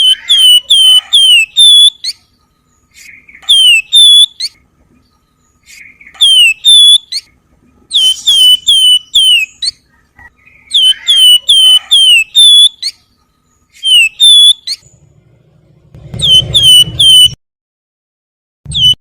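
Javan fulvetta (wergan Jawa, 'flamboyan') singing its whistled 'nyiul' variation: quick groups of four to six sharp, hooked whistles repeated every two to three seconds. A low rumble runs under the last phrase near the end.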